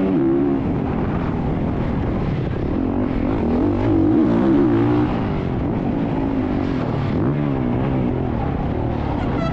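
Dirt bike engine revving up and down as it is ridden, its pitch rising and falling again and again under throttle.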